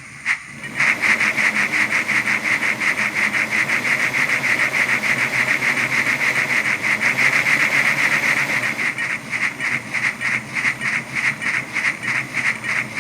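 Steam locomotive exhaust chuffs from a Soundtraxx Econami UK Steam DCC sound decoder in a model 9F locomotive, played through its small speaker: an even, rapid run of chuffs, about three to four a second, starting about a second in.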